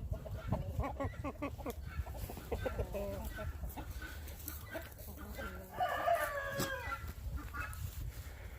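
Chickens clucking in short calls throughout, with a louder, longer drawn-out call about six seconds in.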